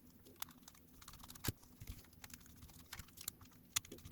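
Faint, irregular small clicks and taps of a Y-tip screwdriver working the screws out of a Nintendo Switch Joy-Con's plastic shell.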